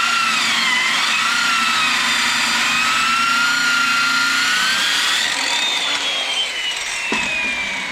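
Electric power saw cutting a wooden fascia board. The motor whine dips and wavers in pitch under load for about five seconds, then falls steadily as the blade winds down after the cut, with a click near the end.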